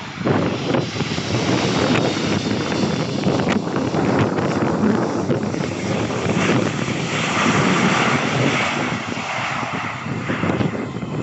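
Aircraft engine noise mixed with wind buffeting the microphone: a loud, continuous rush that grows brighter about two-thirds of the way through.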